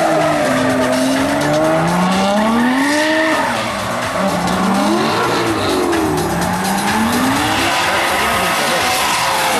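Drift car engine revving up and down in repeated sweeps as the car is thrown through the slalom, with tyres screeching as it slides.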